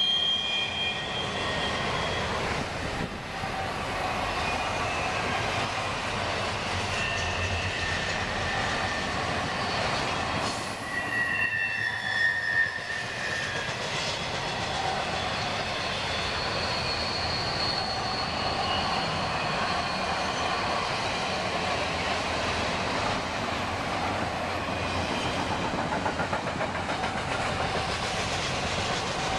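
Double-stack intermodal well cars rolling past on a curve, the steady rumble of steel wheels on rail with high wheel squeal coming and going, loudest about eleven to thirteen seconds in.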